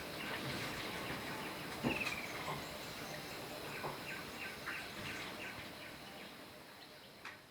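Rainforest ambience: many short bird chirps over a steady high insect drone, with one longer falling bird call about two seconds in. It fades out near the end.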